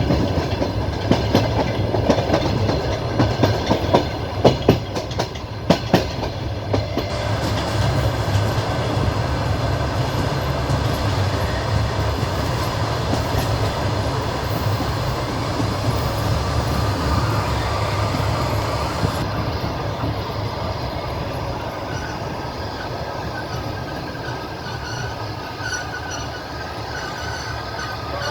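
Passenger train wheels rolling on the rails: a run of clacks over rail joints during the first several seconds, then a steady rolling rumble.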